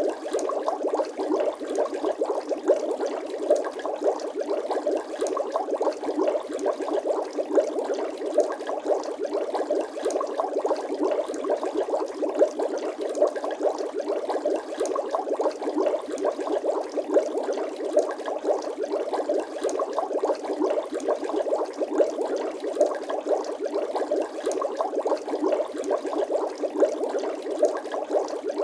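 Bubbling water sound effect: a dense, unbroken stream of small bubble pops, with an occasional louder pop standing out.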